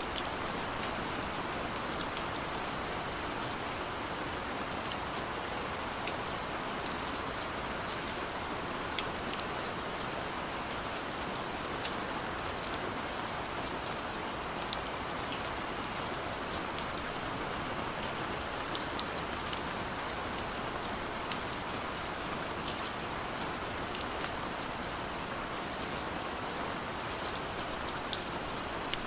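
Steady gentle rain: an even hiss of rainfall with scattered sharp drip ticks of individual drops landing close by.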